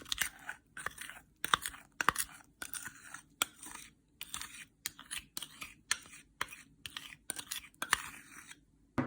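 A spatula scraping thick blueberry jam into whipped egg whites in a bowl: a string of short, wet scraping strokes about two a second.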